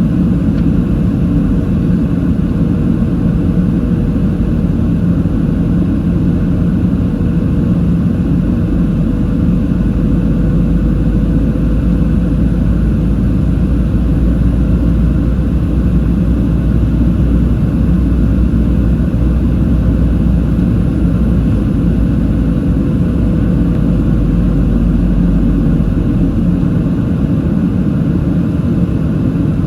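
Cabin noise of a Boeing 737-700 in flight: the steady rush of air and engine hum from its CFM56 turbofans, with a faint steady whine held throughout.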